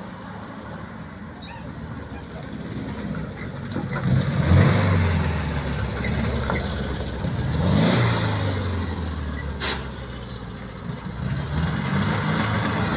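Volkswagen Beetle engine running, with the revs rising about four seconds in and again around eight seconds. A single sharp click comes just before ten seconds.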